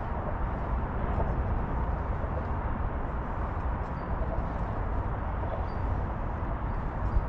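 Steady outdoor ambient noise, a low even rumble with no single event standing out.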